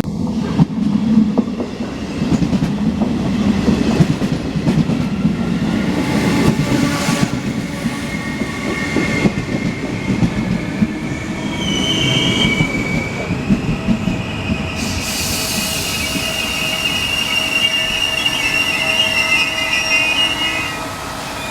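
Regional passenger train of MDVC medium-distance carriages with an E.464 electric locomotive rolling along the platform, its wheels rumbling and clacking. From about halfway through, a high, steady brake and wheel squeal sets in and holds as the train slows.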